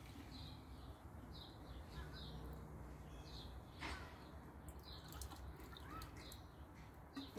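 Faint bird chirps: short high calls about once or twice a second over a low, steady outdoor background rumble.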